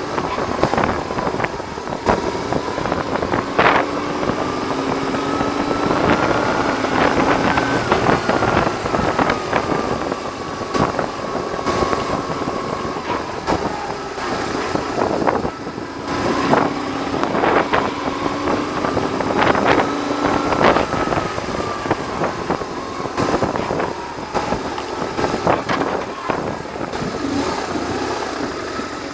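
BMW R1100R boxer twin ridden on the road, its engine note rising and falling twice, under heavy wind noise battering the microphone, which the rider puts down to the screen.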